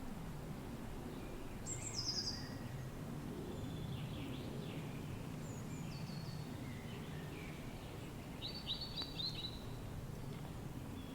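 Steady low wind noise with wild songbirds singing over it: a short phrase of high falling notes about two seconds in, scattered calls mid-way, and a quick run of repeated notes near the end.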